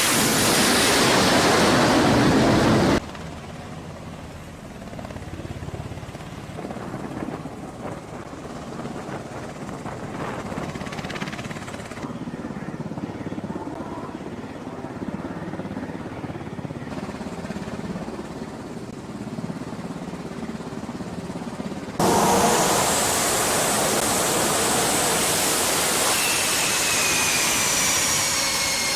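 Jet aircraft noise: a loud engine roar that cuts abruptly to a quieter stretch of steady noise, then a loud roar again, with a high turbine whine slowly falling in pitch near the end.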